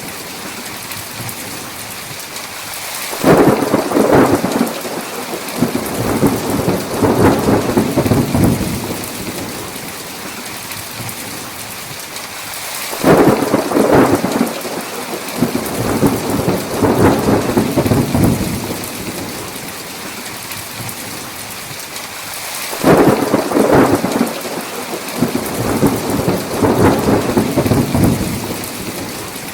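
Steady hiss of heavy rain with thunder: three claps about ten seconds apart, each breaking sharply and rolling on for several seconds before fading back into the rain.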